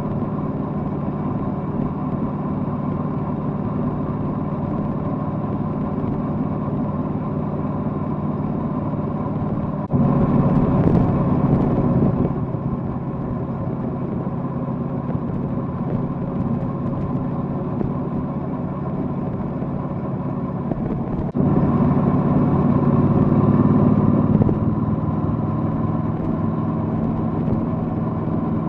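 Triumph Bonneville Bobber's parallel-twin engine running steadily under way, with road noise. It gets suddenly louder twice for a few seconds, as if throttled up, then settles back.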